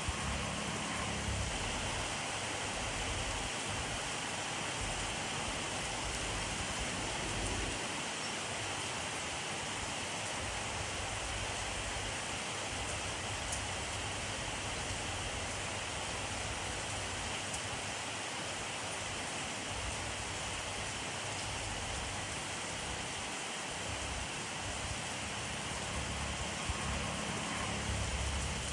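Steady rainfall, an even hiss of falling rain with a low, uneven rumble underneath and an occasional faint drop tick.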